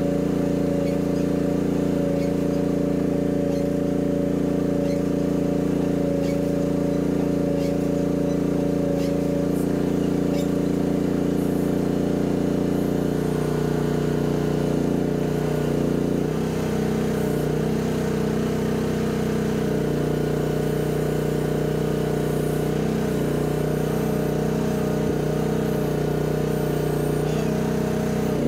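Mini excavator engine running steadily. About halfway through, its note shifts and turns uneven as the machine comes under load.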